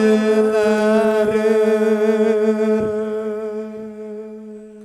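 A singer's voice holding one long, steady note at the end of a sung line, with no instruments. It fades gradually and dies away near the end.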